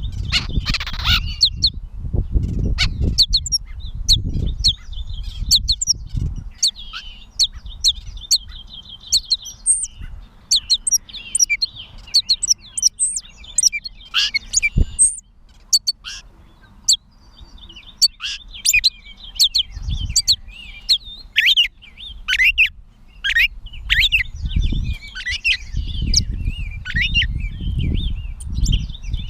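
Gray catbird singing: a long, rambling run of short, varied chirps, squeaks and whistled notes with brief pauses between phrases. A low rumble sits underneath in the first few seconds and again near the end.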